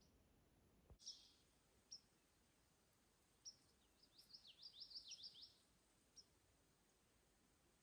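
Faint songbird calls in quiet woodland: a few short, high chirps, and about four seconds in a quick run of about ten high, falling notes.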